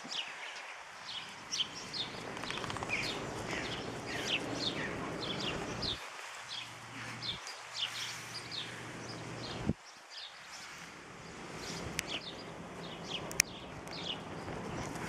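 Small birds chirping again and again, short falling chirps, over a steady rustling hiss; two sharp clicks near the end.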